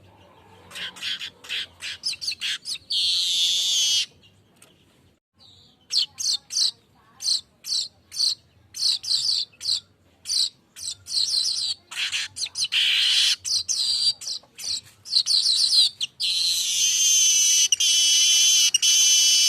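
Golden-headed manyar weaver bird singing: runs of quick, sharp chipping notes broken by short pauses, with longer high buzzy, wheezing trills, the longest near the end.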